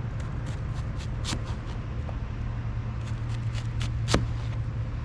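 Knife chopping half an onion into large pieces: a run of irregular knocks, the loudest about four seconds in, over a steady low hum.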